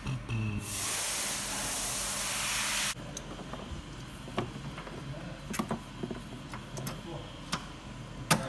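A loud burst of hissing air or spray lasting about two seconds and cutting off suddenly, followed by scattered light clicks and knocks, one sharper knock near the end.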